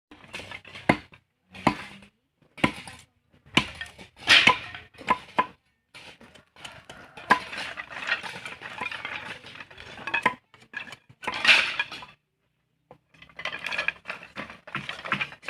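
Metal hand tools striking and scraping against stone and gravel: irregular sharp clinks with a short ring, and a longer stretch of dense scraping in the middle.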